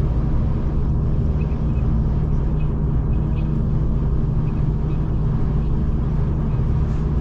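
V/Line passenger train running along the line, a steady low rumble heard from on board, with a few faint high squeaks.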